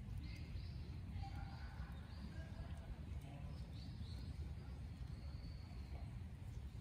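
Birds calling faintly: short, high, even-pitched calls that come every second or so, with a longer call about four seconds in, over a steady low outdoor rumble.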